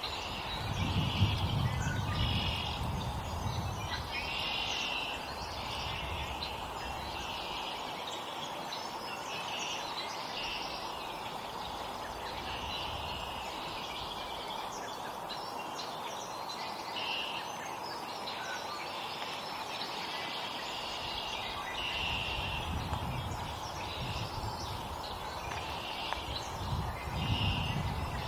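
Small songbirds at a feeder giving many short, repeated chirps and calls, with low rumbles near the start and again near the end.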